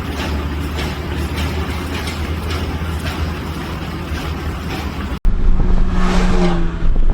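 A car driving, with a steady low engine hum and road noise. About five seconds in it cuts abruptly to a louder, deeper road rumble.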